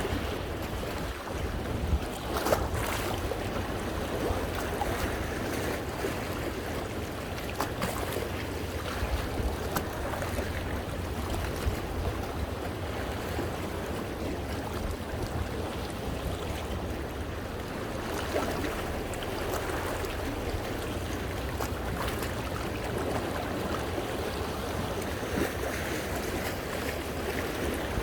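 Sea waves washing over shoreline rocks: a steady rush of surf and splashing water that swells now and then, over a low rumble of wind on the microphone.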